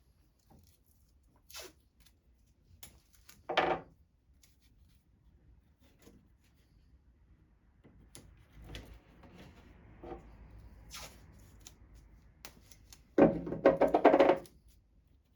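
Wood being handled during drawer repair work: scattered small knocks and clicks, a short scrape about four seconds in, and a louder rasping rub lasting about a second and a half near the end.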